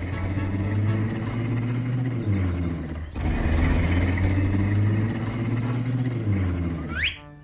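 Cartoon engine sound effect of an animated vehicle running steadily, its pitch stepping up and down, with a brief break about three seconds in. A short rising whoosh comes near the end.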